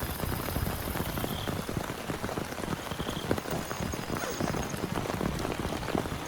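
Heavy rain falling steadily on a tent, a dense patter of drops striking the surface.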